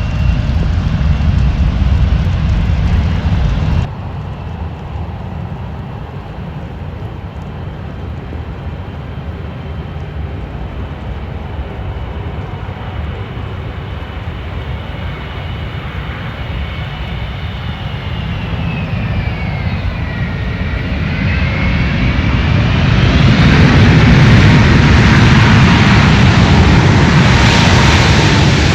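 Jet airliner passing close by: its engine whine grows and bends downward in pitch a little past twenty seconds, then loud jet engine noise swells near the end. Before that, a loud low rumble cuts off suddenly about four seconds in.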